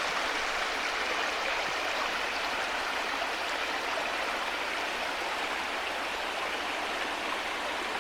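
Rainwater runoff flowing in a small stream, a steady rush of water.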